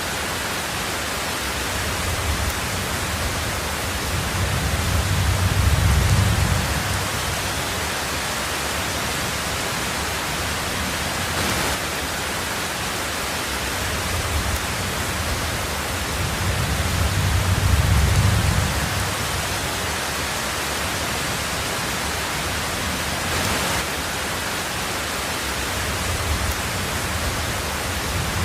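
Heavy rain on a tin roof as a steady, even hiss. A low rumble of distant thunder swells and fades twice, about four and sixteen seconds in.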